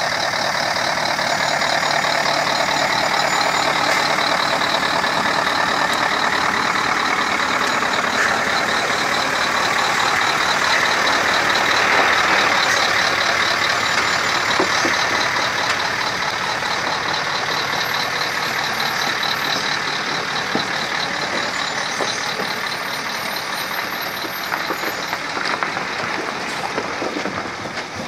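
Heavy truck engine running loud and steady, with a steady high whine above it, swelling a little in the middle.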